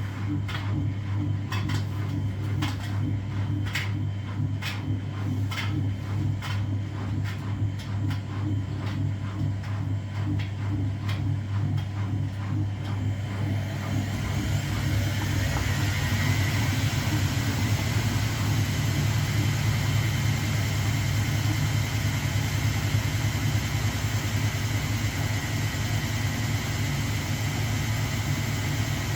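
Washing machine running with a steady low motor hum and irregular knocks from the drum. About halfway through, a rising whine and rushing noise build as the drum speeds up into a spin, then hold steady.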